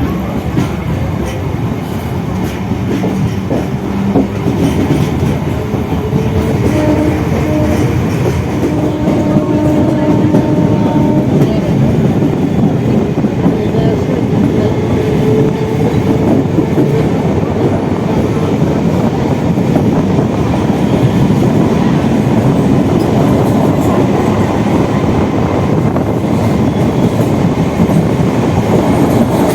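Electric local train running at speed, heard on board: a loud steady rumble with wheel clatter over the rails, building over the first few seconds. A train horn sounds for a few seconds about seven seconds in.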